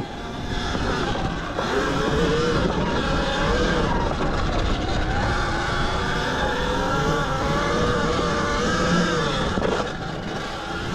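Zero XB electric dirt bike under way on a sandy trail: its motor whine rises and falls with speed over a steady rushing noise, easing off a little near the end.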